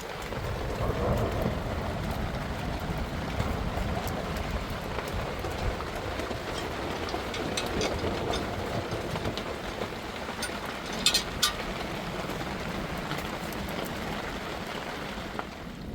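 Heavy rain pouring steadily with a deep low rumble under it, and a few sharp clicks about eleven seconds in.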